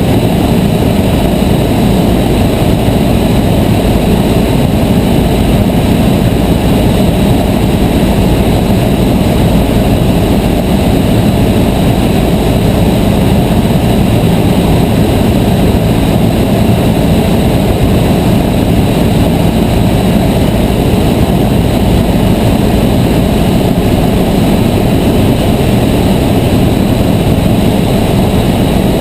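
Cessna 152's four-cylinder Lycoming O-235 engine and propeller running steadily in flight, a loud, even drone with no change in pitch.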